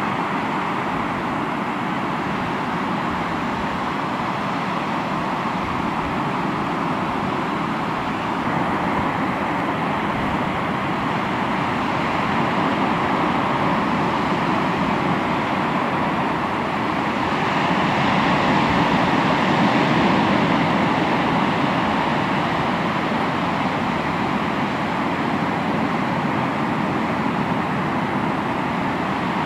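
Sea waves breaking and washing on the shore: a steady rush that swells louder about twelve seconds in and again from about seventeen to twenty-one seconds.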